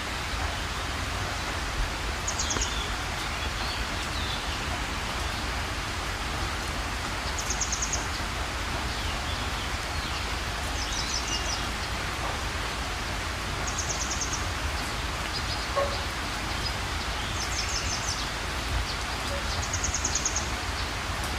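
Steady rain falling, with a bird's short, high, rapidly pulsed trill repeating six times, every few seconds.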